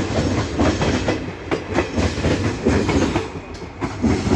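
Indian Railways passenger coaches rolling past on the adjacent track, their wheels clattering over rail joints in a quick, uneven rhythm over a low rumble. The clatter drops away at the very end as the last coach goes by.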